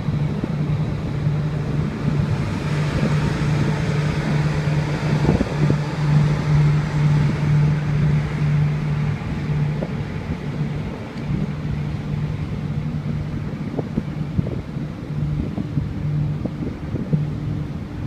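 Wind buffeting the microphone over a steady low hum from the cruise ship's machinery on the open deck.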